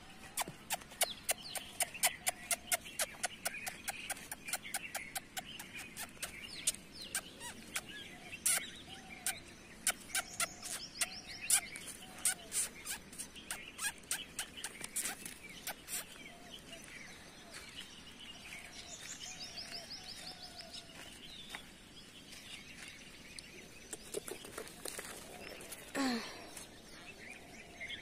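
Small birds chirping, with a quick run of sharp ticks through the first half and a higher trill heard twice. About 26 seconds in comes one short cry that falls in pitch.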